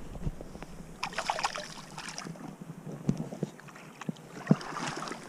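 Light water splashing with scattered small knocks and clicks, heaviest about a second in and again near the end.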